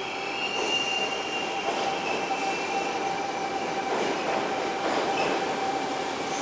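Sydney electric commuter train running, a continuous rumble with steady high-pitched tones held over it.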